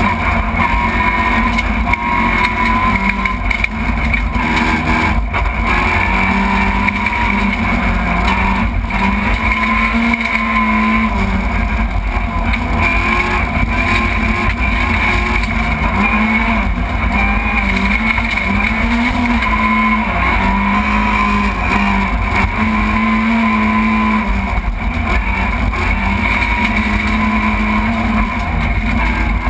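Rally car engine heard from inside the cabin at full stage pace, revving up and dropping back again and again, over constant road and tyre noise.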